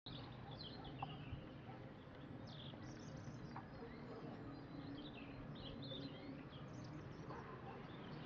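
Birds chirping faintly over low outdoor background noise, with a couple of light clicks.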